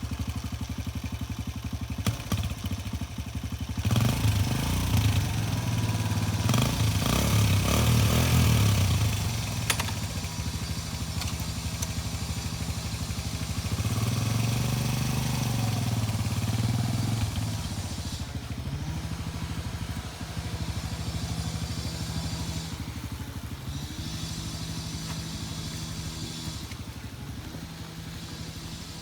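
Suzuki DR-Z125 dirt bike's single-cylinder four-stroke engine running as it is ridden in second gear, its note rising and falling with the throttle. It is loudest from about four to nine seconds in and again a little after the middle, then steadier and quieter near the end.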